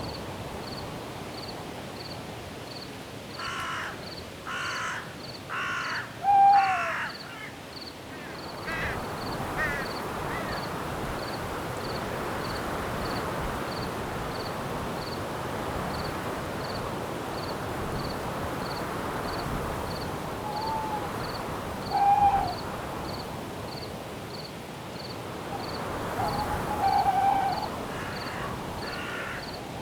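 Night forest ambience: wind through the trees, rising about a third of the way in, under a cricket chirping steadily about twice a second. A run of four harsh bird calls comes early, and a few short hoots from an owl come at intervals, the first and loudest one dropping in pitch.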